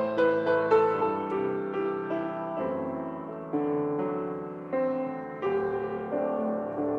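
Solo piano playing a slow, gentle piece: a quick run of notes in the first second or so, then sustained chords struck about once a second.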